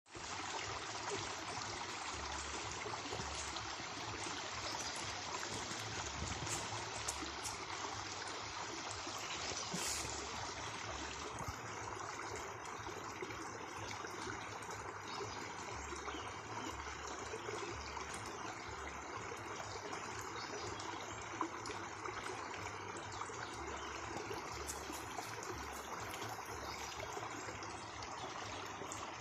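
Water of a small stream running steadily, a continuous babbling rush with no let-up.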